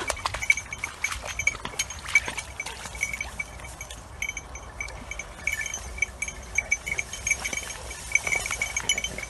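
A small metal bell jingling in quick, uneven rings throughout, with scattered clicks and rustles.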